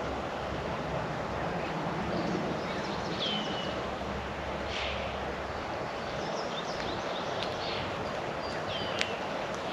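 Backyard songbirds around a feeder giving short, high, down-slurred chirps and calls over a steady outdoor background hiss, with a sharp click about nine seconds in.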